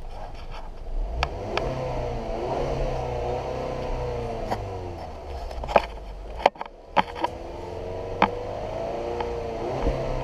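2018 Ford Edge 2.0L EcoBoost turbocharged four-cylinder engine running and being revved up and down, with several sharp clicks over it.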